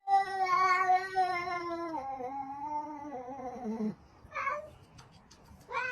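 Cat yowling: one long drawn-out call that drops in pitch about two seconds in and slides down at its end, followed by two short meows.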